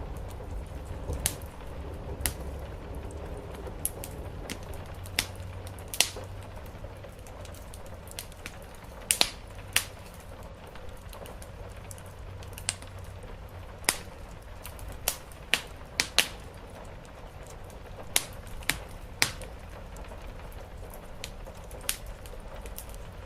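Wood fire in a fireplace crackling, with sharp pops at irregular intervals, over a low steady rumble of rain on the roof.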